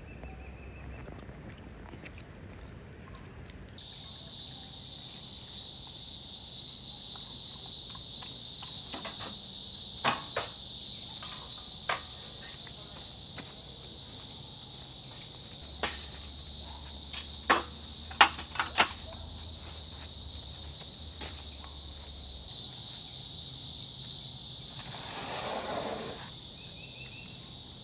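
Steady high-pitched chorus of insects that cuts in about four seconds in, with a few sharp clicks or knocks scattered through it and a brief swell of duller noise near the end.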